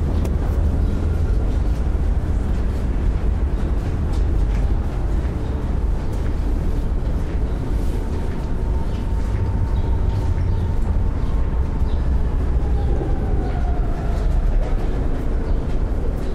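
A train running by with a steady low rumble, and a faint whine that falls in pitch about three-quarters of the way through.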